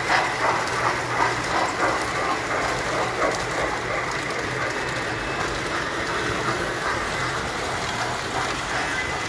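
Tinplate model train running on its track: the wheels click over the rail joints in a steady rhythm of about two clicks a second, fading after a few seconds as the train moves off, over a steady low hum.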